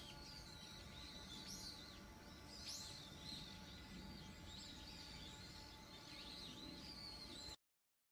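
Faint bird calls, short repeated chirps and quick sweeping notes, over a steady low hum; the sound cuts off suddenly near the end.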